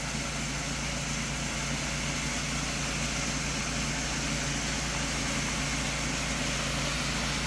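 Fire truck engine running steadily while it pumps water into a storage tank: a constant low hum with an even hiss.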